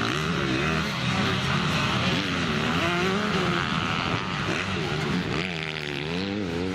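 Several motocross bikes' engines revving hard on and off the throttle, their pitch rising and falling over and over; near the end one engine's pitch drops steeply and climbs again.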